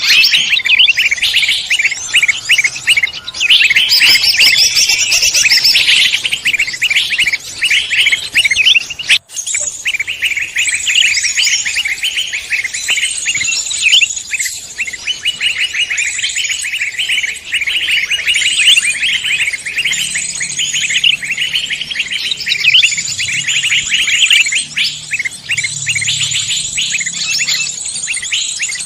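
A dense chorus of many songbirds chirping and trilling at once, rapid overlapping calls with no pause, from a mixed-species bird-lure recording. There is a momentary drop-out about nine seconds in.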